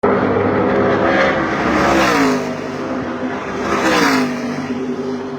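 NASCAR Truck Series race trucks' V8 engines passing at speed, twice, about two seconds apart, each dropping in pitch as it goes by.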